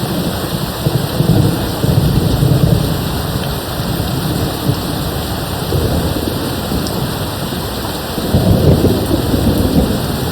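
Steady rain with low rolling rumbles of distant thunder, which swell about a second in and again about eight seconds in.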